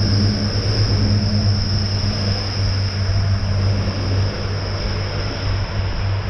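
Diesel train engines running with a steady low drone and a constant high whine.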